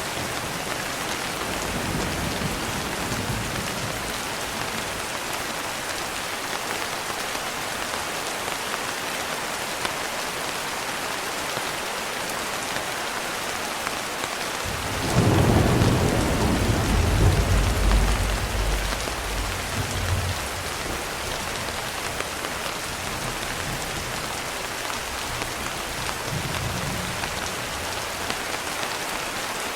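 Steady rain pattering on a window, with a roll of thunder about halfway through that breaks in suddenly and rumbles for about five seconds before fading. Fainter low rumbles come near the start and near the end.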